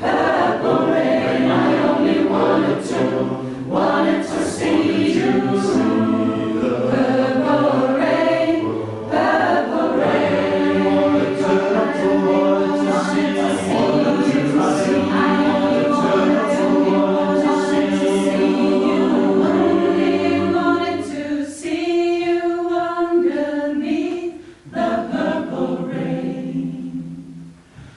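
A choir singing in harmony, a cappella, with held chords; the sound thins to a quieter, sparser passage near the end.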